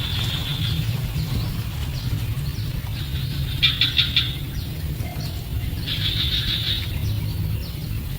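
A bird chirping in three short bursts of rapid trilled notes, a couple of seconds apart, over a steady low rumble.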